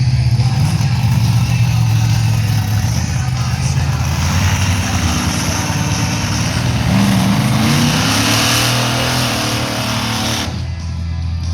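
Monster truck engine running loud and revving, its pitch rising about two-thirds of the way through, then the roar drops away suddenly near the end.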